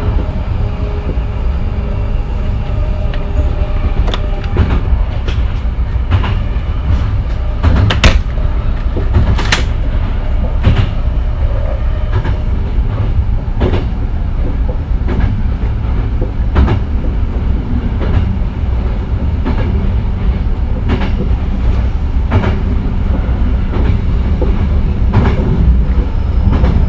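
Hankyu 9000 series electric train running at speed: a steady low rumble with sharp clacks from the rail joints, roughly one every second or so.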